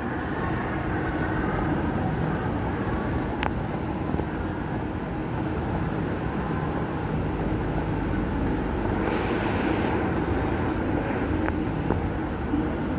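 Inside an MRT Purple Line electric train running between stations: a steady rumble of wheels on rail and drive noise, with a short hiss about nine seconds in and a couple of faint clicks.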